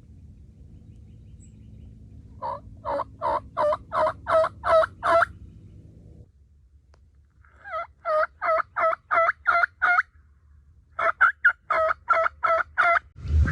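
Three runs of turkey yelps, each a string of even, two-note yelps at about three a second, with short pauses between the runs.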